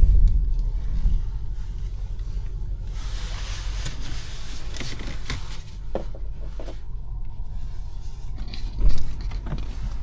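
Low rumble from a BMW X5 M50i dying away over the first two seconds as the drive ends. Then a few sharp clicks and a single loud thump about nine seconds in.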